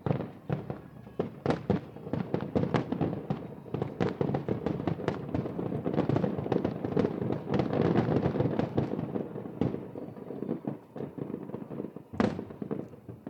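Aerial fireworks bursting in a rapid barrage of bangs and crackles, building to a dense continuous rattle midway, then thinning to scattered bangs with one more loud burst near the end.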